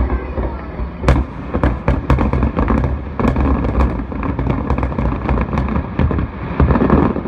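Rapid volley of aerial firework shells bursting: many sharp bangs and crackles a second over a steady low rumble.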